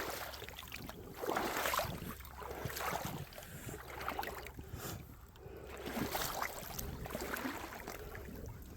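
Footsteps crunching and scraping over creek gravel and rocks, in uneven steps every second or so.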